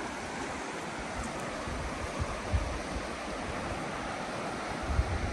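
Steady rush of river water. Two brief low buffets of wind on the microphone come about halfway through and near the end.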